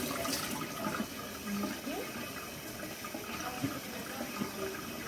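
Kitchen tap running steadily into a sink, water splashing.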